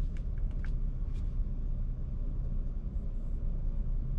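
2021 Ford F-150 Raptor's twin-turbo V6 idling with the active exhaust in normal mode: a steady low rumble, with a few light clicks in the first second.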